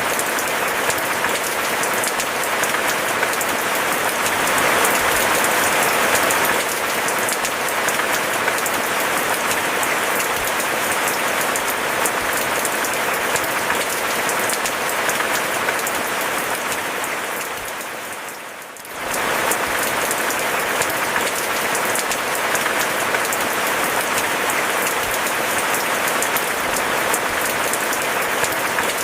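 Steady, heavy rain hiss. About two-thirds of the way through it fades down briefly and comes straight back at full level.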